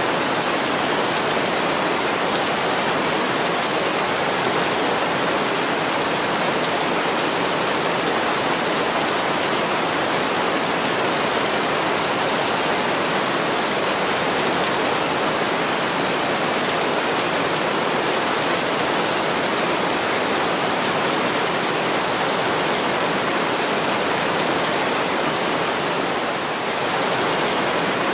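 Steady heavy rain, a dense even hiss of rainfall pouring down a window pane.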